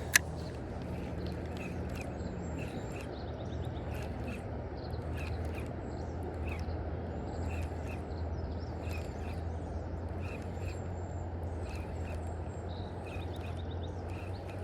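Birds chirping in short, repeated calls over the steady rushing noise of a river, with one sharp click just after the start.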